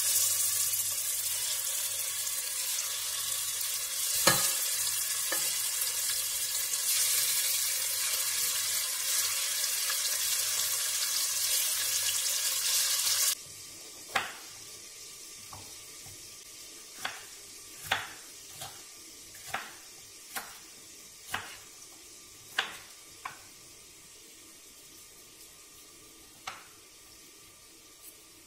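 Chicken pieces sizzling as they go into hot olive oil in a stainless steel pressure cooker, a steady loud sizzle with a knock about four seconds in. It cuts off suddenly about halfway, giving way to a kitchen knife cutting a red bell pepper on a bamboo board: about ten sharp, irregular taps of the blade on the wood.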